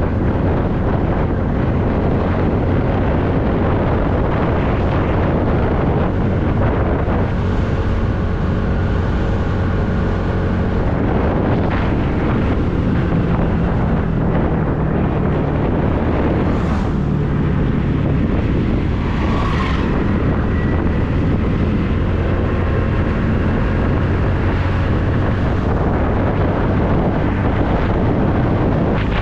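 TVS Ntorq 125 scooter's single-cylinder engine running under way, largely masked by steady wind noise on the microphone, its tone shifting in pitch now and then with the throttle.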